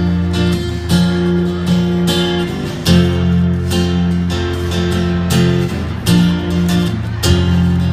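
Acoustic guitar strumming slow, ringing chords as the introduction of a song.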